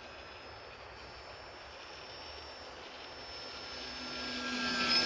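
Small electric RC model plane's motor and 7x6 propeller whining in flight, faint at first and growing louder toward the end as the plane comes past on a low flyby.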